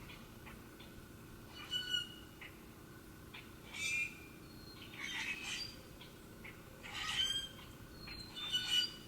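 Birds calling: about five short, rough calls spaced a second or two apart, over a steady low background hum.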